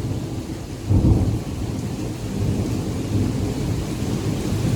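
Thunder rumbling from an overhead lightning strike, with a sudden louder surge about a second in, over steady rain.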